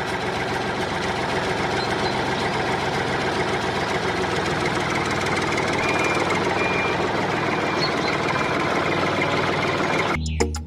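Small engine of a DIY mini tractor running steadily. Drum-led music cuts in just before the end.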